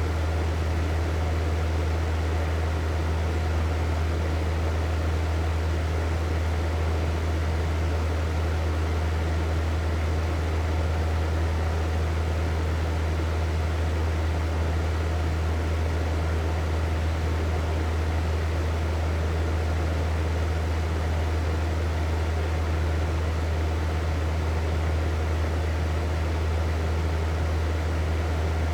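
Hair dryer running steadily: an even rush of blown air over a strong low hum.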